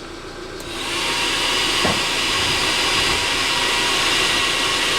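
Eberspacher D1L diesel heater's blower fan spinning up after a reset. It rises over about the first second, then runs as a steady whooshing hiss.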